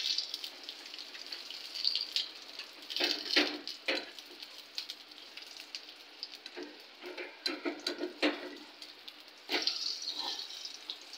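Jaggery-flour batter frying in shallow oil in an aluminium wok: a steady sizzle full of small crackles and pops, with a few louder bursts of crackling or metal spatula taps now and then.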